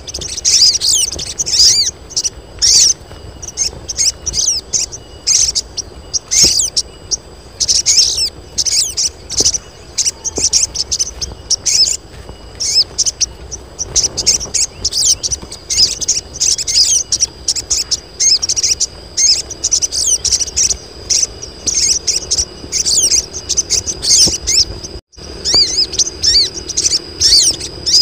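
A group of female sogon birds calling together: a dense, rapid stream of high-pitched chirps and short trills, the calls of females in breeding condition that draw males. A brief break in the sound near the end.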